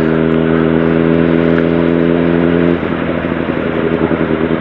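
Sportbike engine running at steady revs under the rider, then easing off about three seconds in into an uneven, pulsing idle-like note before the steady note picks up again near the end.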